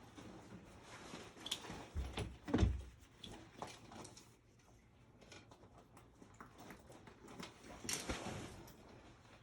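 Scattered knocks, clicks and clunks of parts and tools being handled during furnace installation work, with a heavy thump about two and a half seconds in and another sharp knock near the end.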